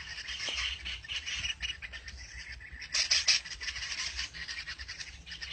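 Many birds chirping in a dense stream of short, high calls, with a louder flurry about three seconds in.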